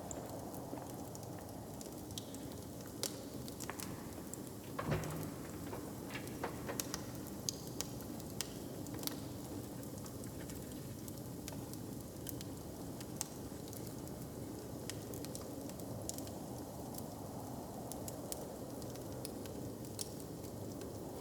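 Wood fire crackling, with frequent small sharp pops over a steady low background, and one louder knock about five seconds in.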